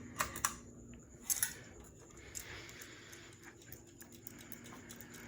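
Ceiling fan pull-chain speed switch clicking a few times in the first second and a half as the speed is changed to medium, then the fan motor's faint steady hum.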